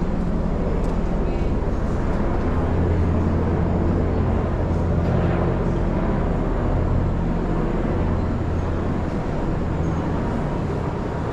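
Road traffic: a steady rumble of passing vehicles, swelling for a few seconds in the middle.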